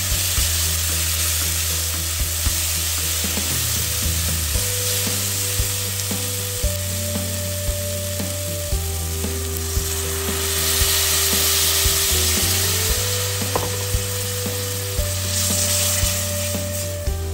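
Onion-tomato curry base sizzling in hot oil in an aluminium pot, with a plastic spatula clicking and scraping against the pot as it is stirred; the sizzle swells louder twice. Soft background music with sustained notes plays underneath.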